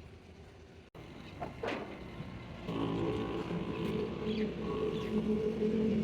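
An engine running steadily, starting about three seconds in, after a short whoosh.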